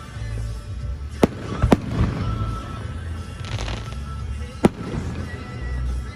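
Fireworks shells bursting in the air: three sharp bangs, two close together about a second in and one more near the end. Music plays along with the show underneath.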